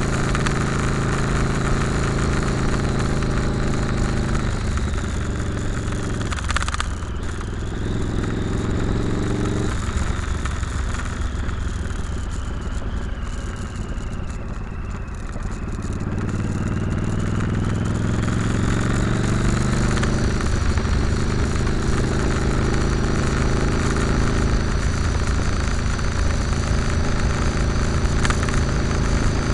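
Motorcycle engine running under way, with wind rushing over the microphone. The engine eases off and drops in pitch near the middle, then picks up again as the bike accelerates.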